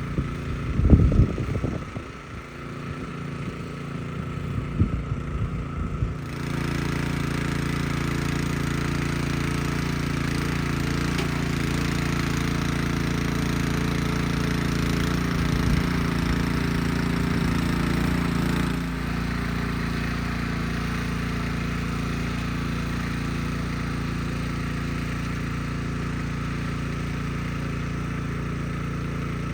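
Craftsman rear-tine garden tiller's small gasoline engine running steadily while tilling, with a few loud low thumps in the first couple of seconds. About six seconds in the engine gets louder, and it eases back slightly after about nineteen seconds.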